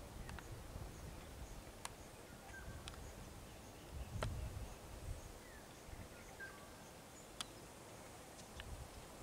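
Quiet outdoor ambience: a bird gives a short call every few seconds over a faint, evenly spaced high ticking, with a few sharp clicks and a brief low rumble about four seconds in.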